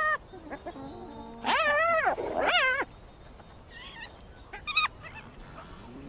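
Spotted hyena cubs calling: pitched calls that rise and fall in pitch, short at first, then two longer ones around two seconds in and a short one near five seconds.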